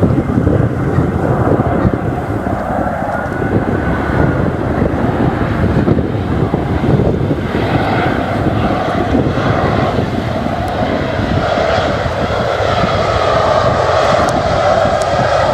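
Airliner engines running loud and steady, with a rushing noise that builds over the second half; wind buffets the microphone.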